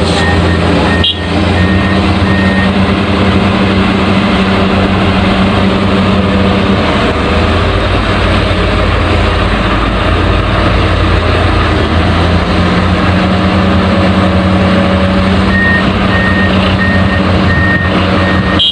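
Heavy construction vehicle's engine running steadily, with a reversing alarm beeping about twice a second at the start and again for the last few seconds.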